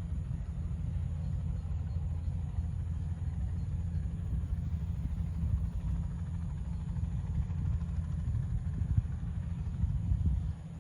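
Crop-spraying helicopter running, heard as a steady low rumble.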